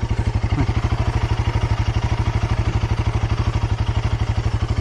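Royal Enfield Himalayan 450's single-cylinder engine idling steadily with an even, rapid pulse, just after being started.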